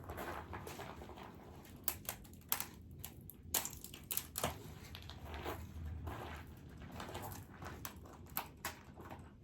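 Dry wood and twigs crackling and snapping, with irregular sharp cracks of different strengths, several of them close together.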